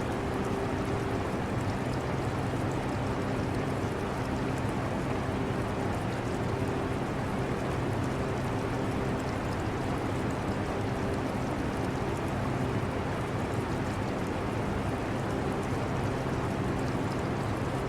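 An air conditioner running with a steady hum and rushing air, mixed with the trickle of aquarium water.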